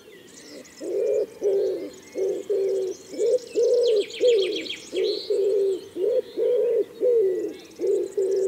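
Birdsong: a bird repeating a low, pitched note about twice a second, with fainter high chirps from other birds behind it and a short rapid trill about four seconds in.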